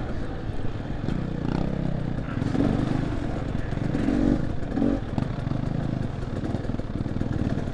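Dirt bike engine running at low, varying revs as the bike crawls along a rough trail, with some rattling from the bike.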